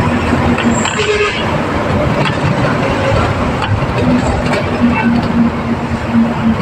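Truck engine and road noise heard from inside the cab while driving, a dense steady rumble with a low hum that fades out for a few seconds in the middle.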